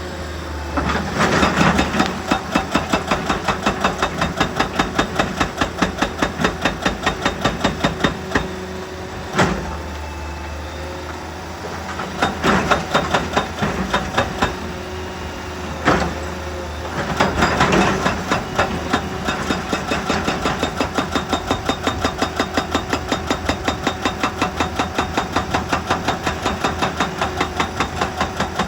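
Heavy machinery running with a fast pulsing rhythm of about three to four beats a second. The pulse drops back twice to a steadier hum, each time just after a single sharp knock.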